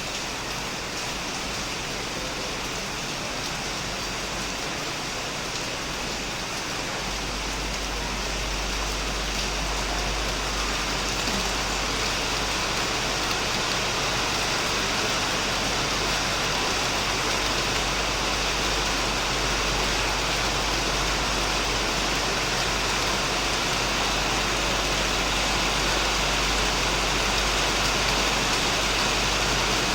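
Heavy rain falling steadily on a shed roof and plants, a dense even patter that grows gradually louder, with a low rumble coming in underneath about seven seconds in.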